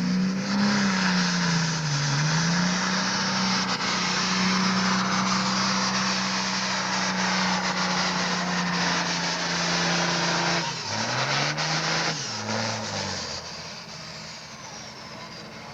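Super farm pulling tractor's engine at full throttle dragging the sled: a steady, high-revving note under a heavy hiss. About eleven seconds in, the revs drop and pick up a couple of times as the throttle comes off, and the sound then fades.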